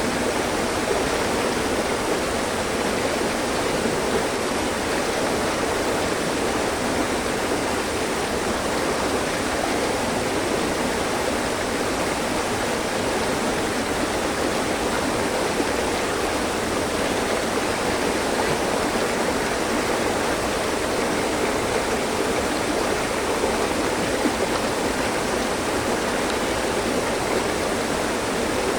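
Mountain stream rushing steadily over rocks, a constant even rush of water.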